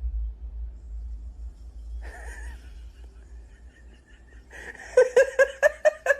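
A person laughing in a quick run of loud 'ha-ha-ha' bursts in the last second or so, over a faint low rumble.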